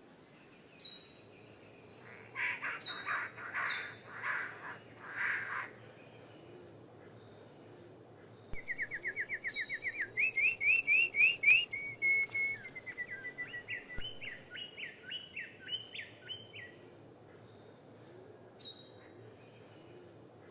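Birds calling: a few harsh, raspy notes in quick succession, then a fast trilling song of rapid repeated notes that runs for several seconds, with occasional short high chirps.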